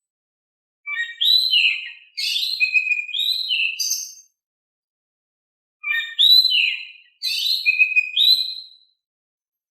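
Oriental magpie-robin (kacer) singing: two phrases of clear whistled notes mixed with quick chirps, each about three seconds long, with a pause of about a second and a half between them.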